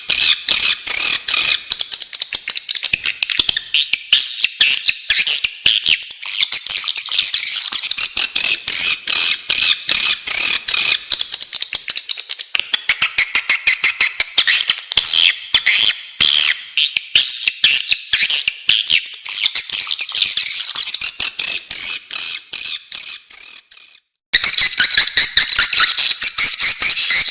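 Swiftlets twittering, a dense, fast stream of high chirps and clicks, as in the recorded calls played to lure edible-nest swiftlets into a nesting house. The sound cuts out for a split second near the end and comes straight back at full level.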